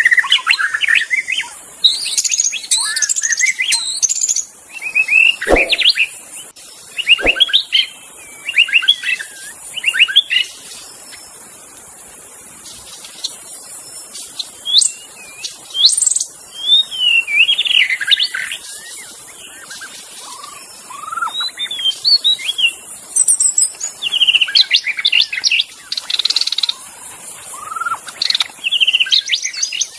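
White-rumped shama (murai batu) singing: a run of varied phrases of clear whistles and chatters, broken by short pauses, with a quieter few seconds midway.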